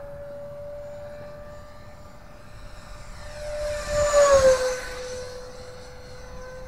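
Freewing F-16 64 mm electric ducted fan RC jet making a full-throttle pass: a steady fan whine that grows louder, peaks about four seconds in, and drops in pitch as the jet goes by.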